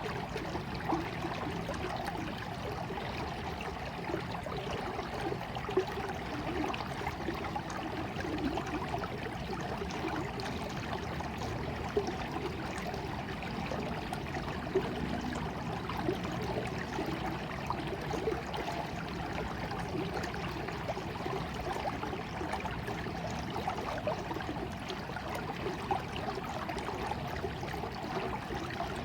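Running water of a stream, flowing steadily, with a few brief louder splashes.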